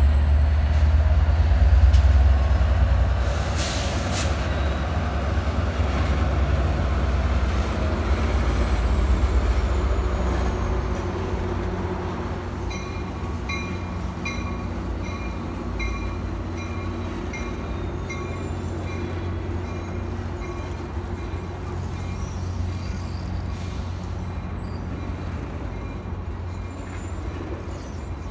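Diesel-hauled Amtrak passenger train with bilevel cars rolling past and away: engine rumble and wheel noise, with a thin high wheel squeal, loudest at first and slowly fading. About twelve seconds in, a bell starts dinging steadily, roughly three strikes every two seconds.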